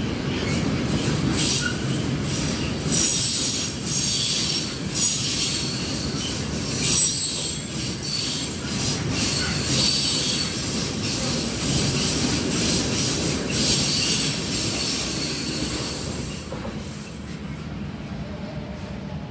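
Freight train of container wagons rolling past close by: a steady low rumble with wheels clattering and squealing at high pitch, in surges about once a second. The last wagon passes about 16 seconds in and the sound drops away.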